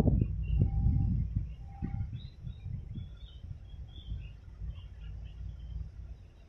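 Small birds chirping in short, scattered high notes, over a low rumble that is loud in the first second or so and then dies down.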